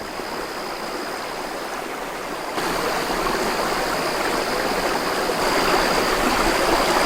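Running water of a stream, a steady rushing hiss that gets louder about two and a half seconds in.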